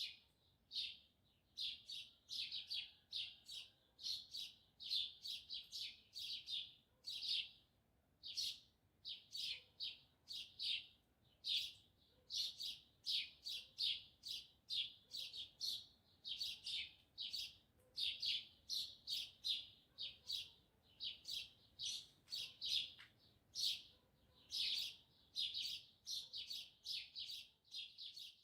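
Small birds chirping continuously: a steady run of short, high chirps, several a second, broken by brief pauses.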